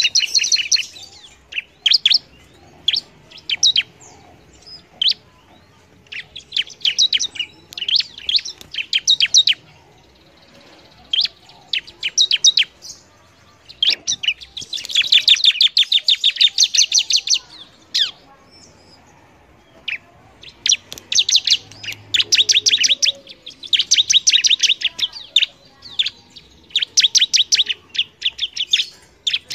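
Bar-winged prinia (ciblek) singing at full voice: phrases of fast, high-pitched chirps repeated with short breaks, and longer dense runs of chirps about halfway through and again near the end.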